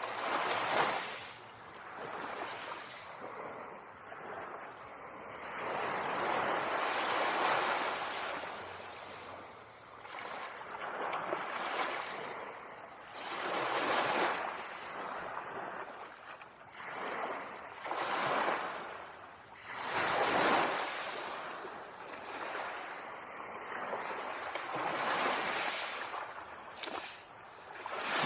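Ocean waves breaking on a beach, the surf hiss swelling and falling back every few seconds.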